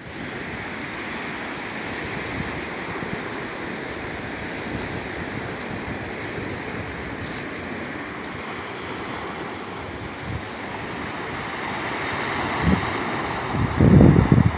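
Black Sea surf breaking and washing on the shore, a steady hiss. In the last second, wind buffets the microphone with loud low rumbles.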